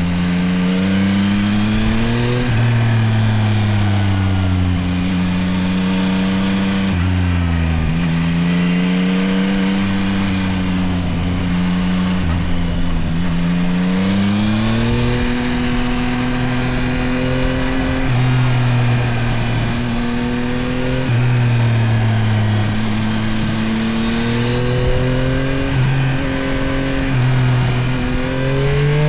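Yamaha CP3 890 cc inline-three engine of a Tracer 9 GT+ motorcycle pulling through the gears. Its pitch climbs, drops sharply at each upshift, and falls away more slowly when the throttle is eased, over a steady wash of wind and road noise.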